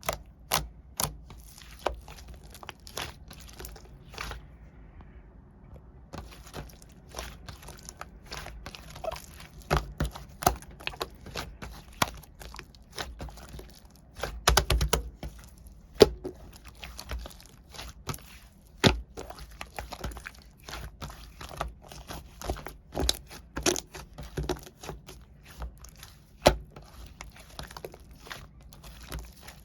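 White clay slime being squished, pressed and stretched by hand: an irregular run of small sharp clicks, pops and crackles, pausing briefly a few seconds in and briefly denser about halfway.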